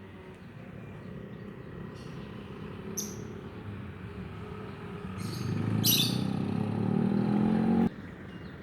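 Lovebird giving a few short, high chirps, over a low motor rumble that swells about five seconds in and cuts off suddenly near the end.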